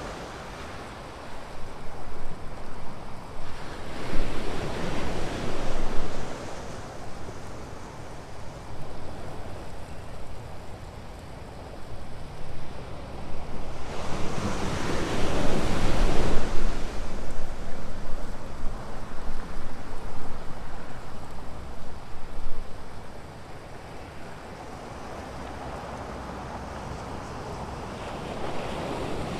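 Ocean surf breaking and washing on the shore: a steady rush that swells loud as each wave breaks, with two big breakers about ten seconds apart and another building near the end.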